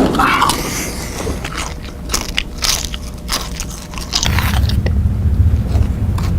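Loud crunching and chewing of a crunchy snack, with sharp bites and crackles close to the microphone. About four seconds in, a low steady hum starts beneath it.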